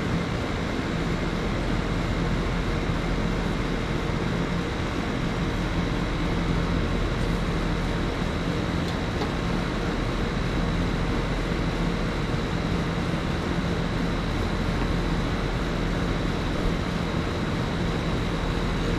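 Steady mechanical drone with a constant low hum and a faint high whine, unchanging in level.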